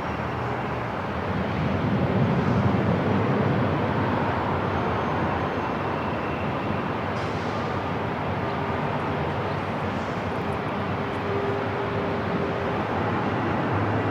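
Airport ambience: a steady noise bed with a low rumble that swells around two seconds in, and a faint steady tone partway through.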